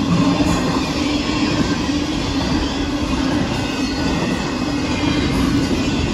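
Union Pacific double-stack intermodal freight train rolling past: a steady, loud rumble and rattle of container cars and wheels on the rails, with a steady low hum underneath.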